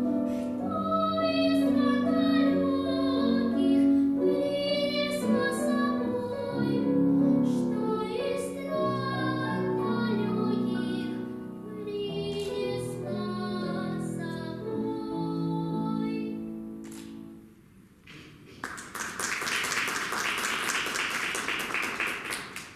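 A young female voice singing a melody with piano accompaniment; the song ends about 17 seconds in, and after a short pause the audience applauds.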